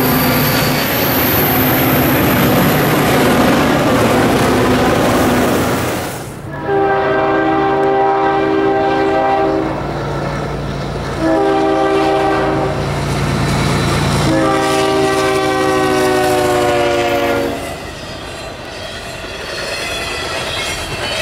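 Diesel freight locomotives running close past. Then a CSX freight locomotive's multi-tone air horn sounds a long, a short and a long blast as the train nears a road crossing: the warning for the crossing. It ends with double-stack container cars rolling past, their wheels clattering over the rails.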